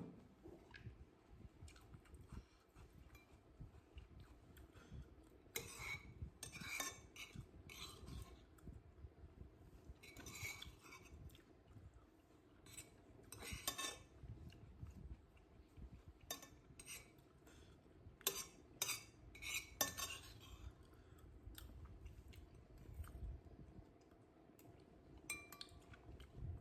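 Cutlery clinking against a plate during a meal: faint scattered clicks and short clusters of clinks as food is scooped up and eaten.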